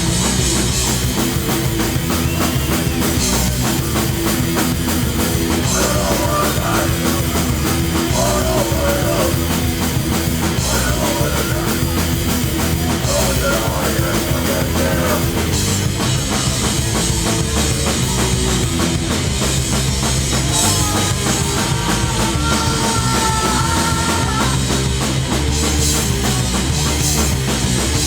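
Live hardcore punk band playing loud and dense: distorted guitars, bass and drums at full tilt.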